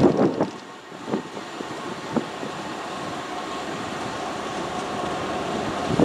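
Train running past on the line: a loud noisy burst at the start, then a steadier rumble with a faint steady tone and two sharp knocks about a second apart.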